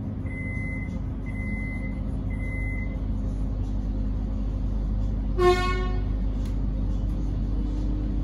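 Three evenly spaced high beeps of a Metro X'Trapolis train's door-closing warning, then about five seconds in a single short horn toot, over the steady low hum of the train standing at the platform.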